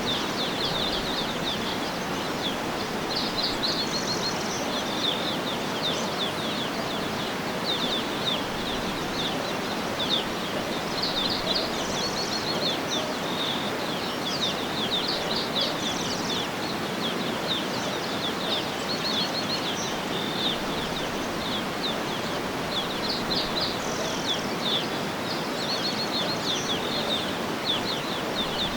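Birds chirping and trilling in short, high runs, many calls overlapping, over a steady background hiss.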